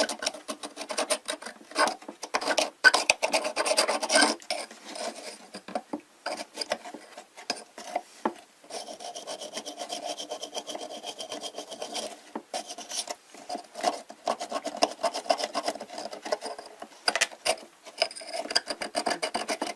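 A brush scrubbing hard mineral scale off a hot-air humidifier part in quick, rapid strokes. The scrubbing is hardest for the first few seconds, eases for a long stretch, then picks up again near the end.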